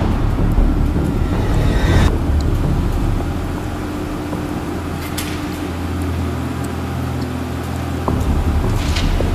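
Ford Mustang engine idling with a steady low rumble. A few short knocks come about two, five and nine seconds in.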